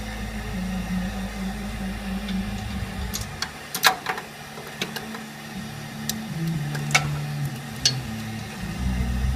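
A steady low mechanical hum that stops about three seconds in. Then several separate sharp knocks and clinks of metal tools, the loudest about four seconds in. The hum starts again near the end.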